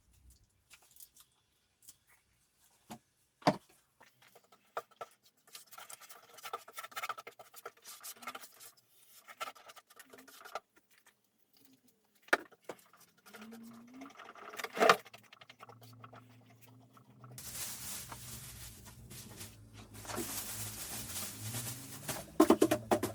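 Workshop handling noises: light clicks, rustles and a few sharp knocks as tools and parts are moved about. A steady machine noise with a low hum starts a few seconds before the end and grows louder.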